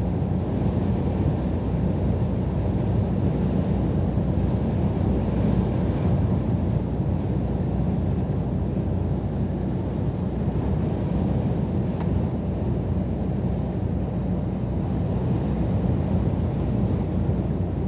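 Scania R500 truck under way: the 13-litre straight-six diesel engine droning steadily, mixed with road and tyre noise. A single faint click comes about twelve seconds in.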